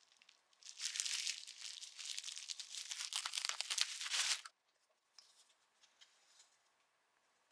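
Crinkling, crumpling and tearing of some material being handled, lasting about four seconds and stopping abruptly, followed by a few faint ticks.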